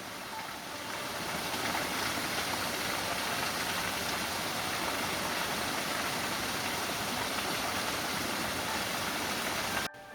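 A river rushing over rocks makes a steady, even rush of water. It cuts off abruptly about ten seconds in.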